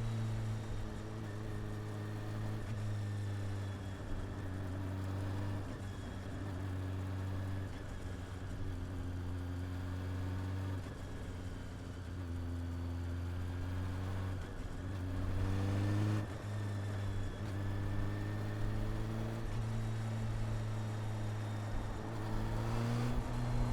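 Honda CB400 Super Four inline-four engine and exhaust running under way, mostly holding a steady note. The revs climb and drop sharply about two-thirds of the way in, as at a gear change, and climb again near the end.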